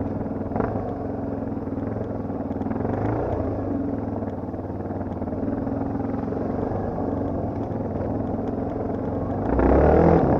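Yamaha TT250R's single-cylinder four-stroke engine running steadily under way, with a louder low surge of noise about nine and a half seconds in.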